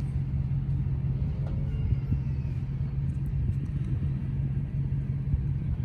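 A vehicle engine running steadily: a low, even hum with rumble underneath.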